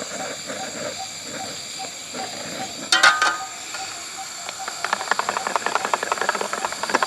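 Water near the boil on a camp stove, hissing steadily. A short, loud clatter about three seconds in, then a fast run of clicks, about nine a second, for the last two seconds.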